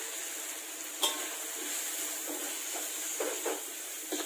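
Onions and tomatoes frying in oil in a steel wok, a steady sizzle, with a sharp metal tap of the spatula about a second in and a few stirring scrapes near the end as curry powder is worked in.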